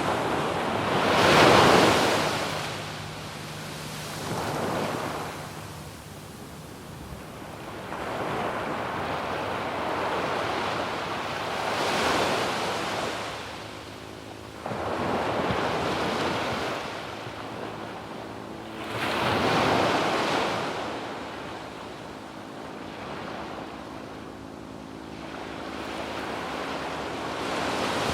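Sea waves breaking and washing up a sandy beach, each surge swelling and fading over a few seconds, the loudest about a second and a half in and others about halfway and two-thirds of the way through.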